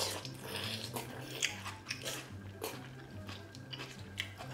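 Close-up mouth sounds of biting and chewing a chewy piece of grilled beef large intestine (daechang): a run of sharp, wet clicks several times a second. Background music with a steady bass line underneath.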